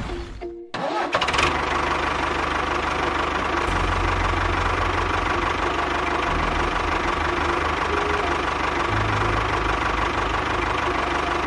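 An engine starts suddenly just under a second in, after a short whoosh, and then runs steadily at idle.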